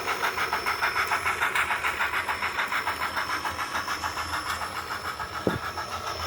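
Model train running along a layout track: a rapid, even clicking of wheels over the rail joints, with a steady high whine underneath.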